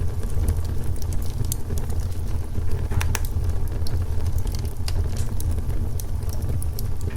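Wood fire burning with a steady low rumble and frequent irregular sharp crackles and pops, a few louder pops about three seconds in.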